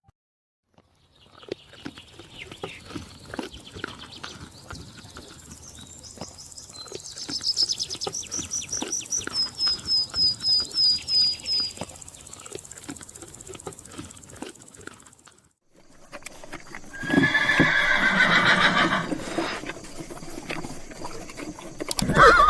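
A tapir gives a run of about a dozen short, high-pitched squeaky whistles, among scattered knocks and shuffling. After a brief break a horse whinnies loudly.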